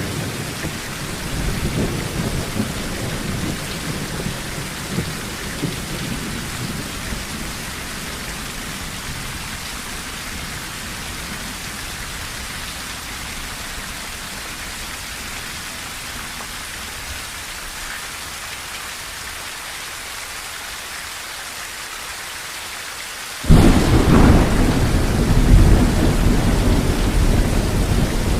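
Steady rain drumming on a tin roof, with thunder rumbling for the first several seconds and dying away. A loud thunderclap breaks in suddenly near the end and keeps rumbling.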